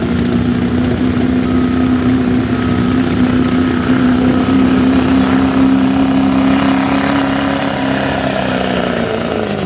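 Pulling truck's engine running hard at steady high revs, with a faint high whine above it; near the end the engine pitch drops away.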